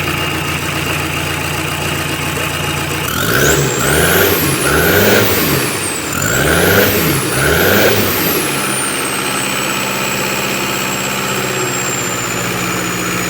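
Toyota 1KZ-T 3.0 four-cylinder turbo diesel idling, then revved four times in quick succession, each rev with the turbo's whistle climbing high. After the last rev the engine settles back to idle while the turbo whine falls away slowly to a steady high tone.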